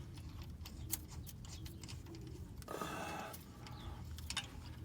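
Faint clicks and a brief scrape about three seconds in: hand tools working on spark plugs in an engine bay, with the engine off.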